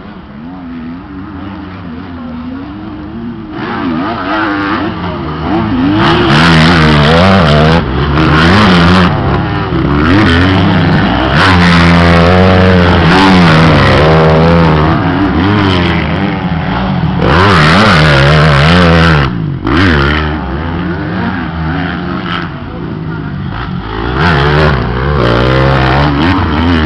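450cc four-stroke motocross bikes racing past, engines revving hard with the pitch rising and falling again and again as they accelerate and shift. The sound builds over the first few seconds, dips briefly past the middle, and swells again near the end.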